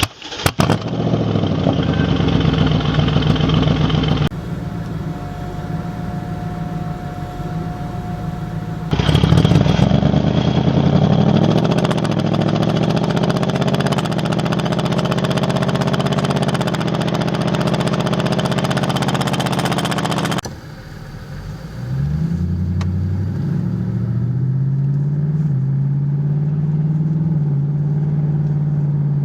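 BMW 645ci's 4.4-litre V8 running through a loud custom exhaust that is not straight-piped, in several short clips. It revs with rising pitch, and near the end it accelerates hard, the pitch climbing in steps between gear changes.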